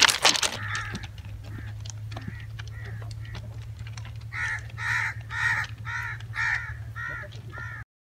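Crow cawing: a few scattered caws, then a quick run of about seven harsh caws at roughly two a second. A steady low hum sits underneath, and the sound cuts off abruptly near the end.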